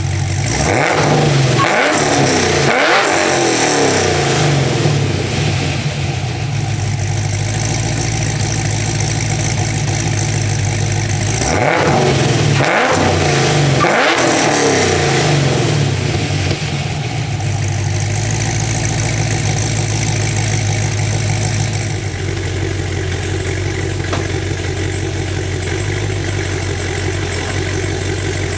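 Cammed supercharged 6.2 L V8 of a Cadillac CTS-V, breathing through long-tube headers and Flowmaster Flow FX mufflers, idling with the choppy lope of its BTR stage 2 cam. It is blipped a few times in quick succession about a second in and again about twelve seconds in, settling back to the lumpy idle in between and afterwards.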